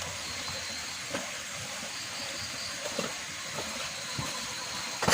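Steady hiss of heavy rain, with a few sharp ticks and a louder knock right at the end.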